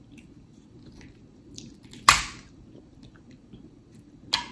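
Close-up wet chewing and lip smacking on snow crab meat, with small clicks throughout and a few sharp smacks: one about two seconds in, two near the end.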